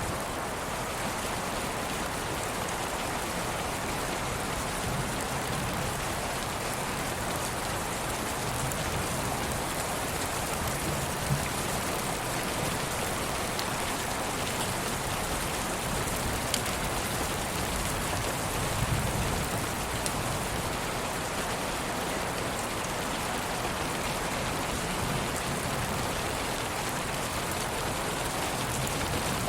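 Steady rain, an even hiss with a few faint drop ticks here and there.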